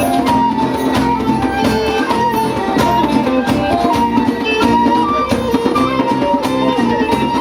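Live folk band playing an instrumental passage: a stepping melody line over plucked strings and a steady percussive beat.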